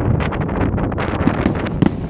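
Fireworks going off: a quick run of sharp crackling bangs in the first half-second, then single louder cracks, over a steady low rumble.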